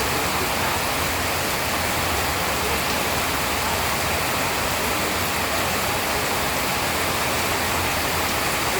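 Steady rain, an even rushing hiss that does not let up.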